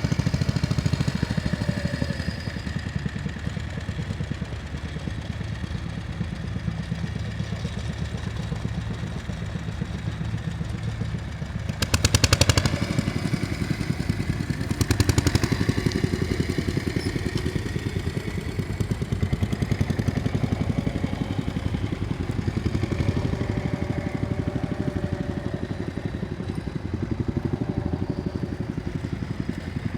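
Tractor engine running steadily, with two brief louder surges about twelve and fifteen seconds in.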